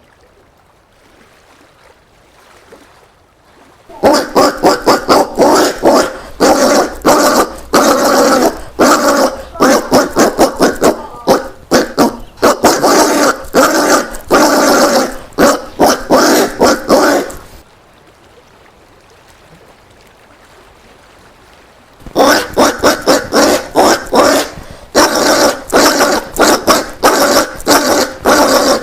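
Collared peccary calling: rapid series of short, pitched calls, several a second, in one long bout beginning about four seconds in. After a pause of a few seconds, a second bout starts.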